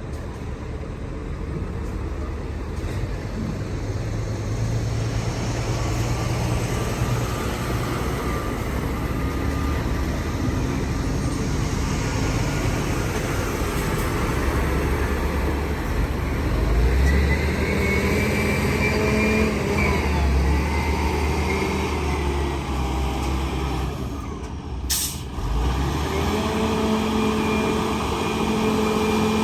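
Heavy diesel engines of an excavator and dump trucks at work, their pitch rising and falling as they rev. A short, sharp hiss of air sounds about 25 seconds in.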